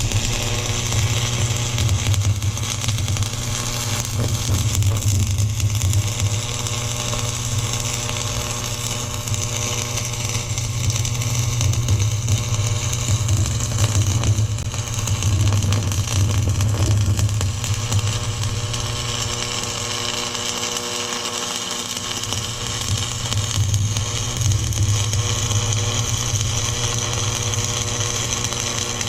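Stick welding with an AC buzz-box arc welder: a steady crackle and hiss from the arc over the welder's low electrical hum, as the two halves of a steel weld-together pulley are fused.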